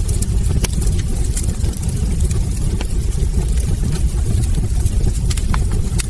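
Wood fire burning in a fireplace: a steady low rumble of flames with scattered sharp crackles and pops from the logs, a few of them clearly louder, the last two near the end.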